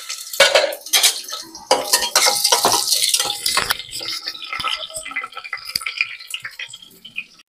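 Onion and chilli pieces frying in hot oil in a metal pot, sizzling, while a spatula stirs them with repeated scraping and knocking against the pot. The sound cuts off suddenly near the end.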